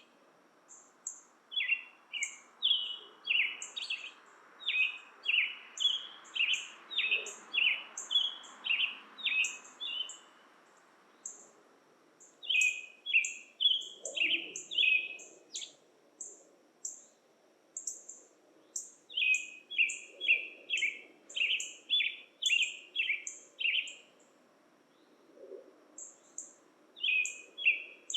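A bird calling in bouts of sharp, repeated chirps, about two a second, with pauses of a few seconds between bouts. A faint low background hum runs underneath.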